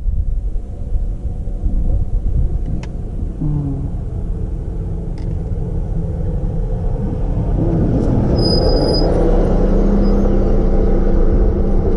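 A motor vehicle driving up, its engine rumble growing steadily louder over the second half, mixed with wind buffeting the microphone.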